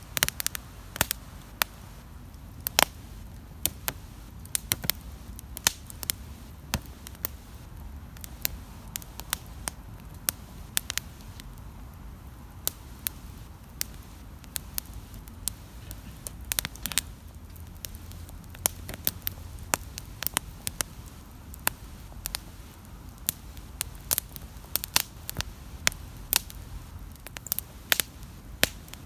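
Wood campfire crackling, with irregular sharp pops and snaps, many a second, over a low steady rumble of the burning fire.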